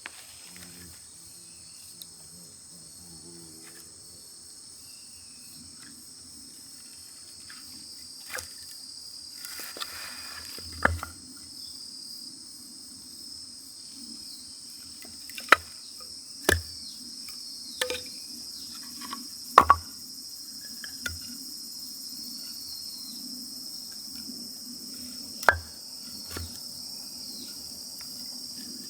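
Steady chirring of crickets and other insects, with a low steady rumble and sharp single pops every few seconds, typical of burning wood crackling in a freshly caught campfire.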